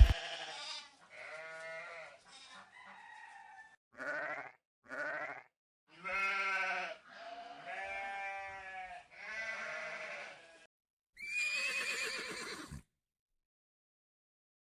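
Sheep bleating: a series of about eight bleats, some short and some drawn out over a second or more.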